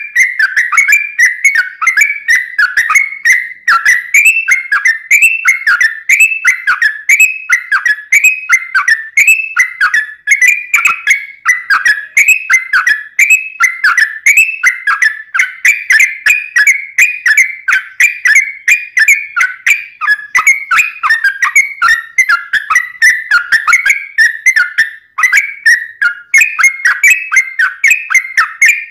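Yellow-vented bulbul (trucukan) singing a long, continuous run of rapid, bubbly whistled phrases with no pauses, a steady stream of about three to four notes a second.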